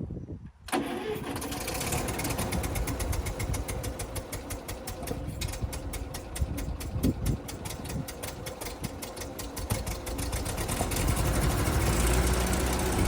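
Ferguson TE20 tractor engine starting: after a brief hush it comes in suddenly under a second in and runs with a rapid, even firing beat, growing louder towards the end.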